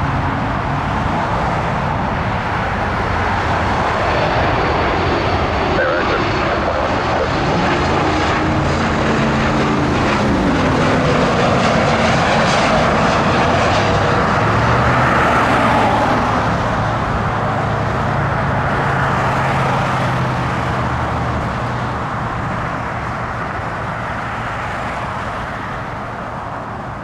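Jet airliner's engines passing: a loud, continuous rushing noise with low tones and some gliding pitch, which builds to its peak about halfway through and then slowly fades.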